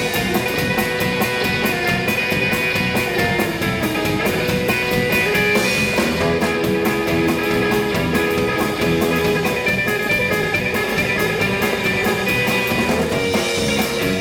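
Live rock and roll band playing an instrumental break between verses: guitar lead over a steady drum beat.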